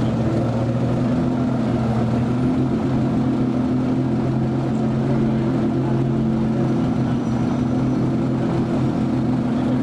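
A vehicle engine running at a steady speed, a constant low drone that holds the same pitch throughout.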